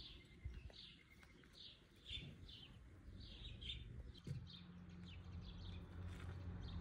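A bird chirping, a run of short high notes about two a second that grow fainter after about four seconds. A low steady hum comes in about four seconds in.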